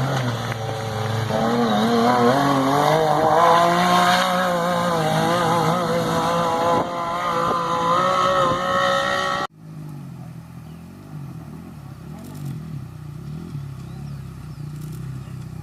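Racing engines running and revving, their pitch rising and falling. About nine and a half seconds in the sound cuts off abruptly to a quieter, lower engine sound.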